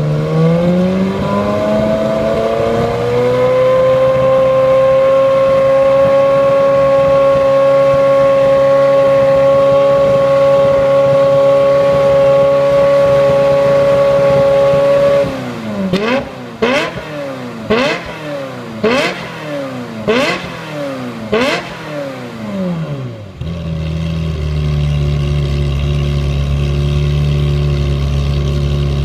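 Ferrari F355's V8 revved through its exhaust: the revs climb over the first few seconds and are held high and steady for about twelve seconds. Then come about six quick throttle blips, each rising and falling sharply, before it drops back to a steady idle near the end.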